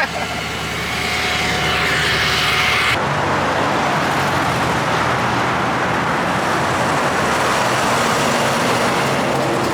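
Motor vehicle engine running, then about three seconds in an abrupt change to a steady rushing vehicle or road noise.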